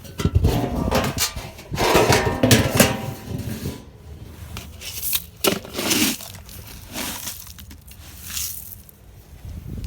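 Irregular rustling and crinkling bursts of a bird seed bag being handled and seed poured as a bird feeder is filled, with low wind rumble on the microphone. The loudest bursts come at the start, around two to three seconds in, and again at about five and a half seconds.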